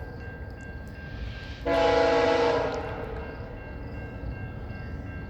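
VIA Rail passenger locomotive's multi-tone horn sounding one blast about a second long, starting near two seconds in and fading, over the steady low rumble of the approaching train.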